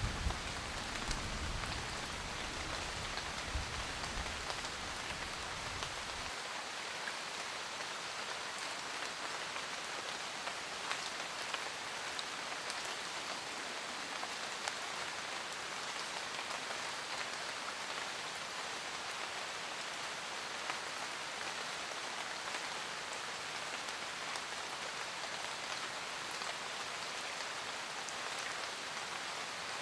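Steady rain pattering on a roof, with distinct individual drops ticking through the hiss. A low rumble underneath, the tail of thunder, stops about six seconds in.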